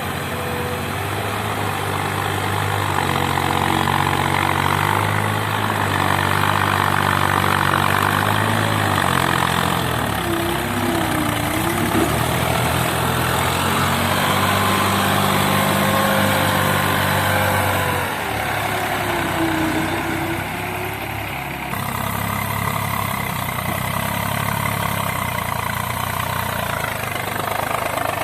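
Diesel tractor engines running, their pitch shifting up and down in steps as the throttle changes.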